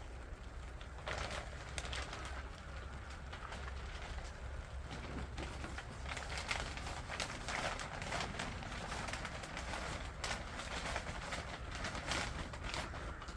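Irregular scrapes and knocks of compost being worked in a vineyard, over a steady low hum.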